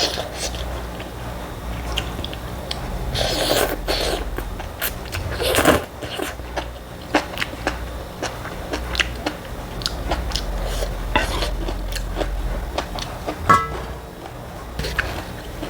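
Close-up eating sounds: chewing and biting with many small wet clicks, and two longer, louder noisy bursts a few seconds in.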